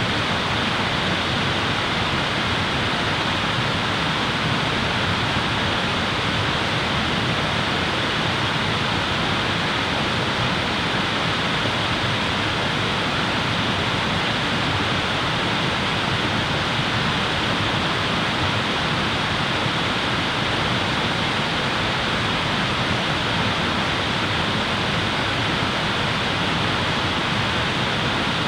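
Steady, even rushing noise that does not change, with no crackles or pops standing out.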